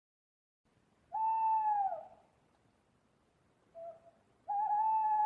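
Owl hooting: a long hoot about a second in, sliding down at its end, then a short faint note, then another long hoot starting near the end.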